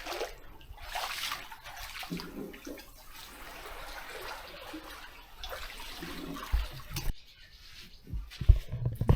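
Seawater washing and trickling over rocks, with a few low bumps near the end.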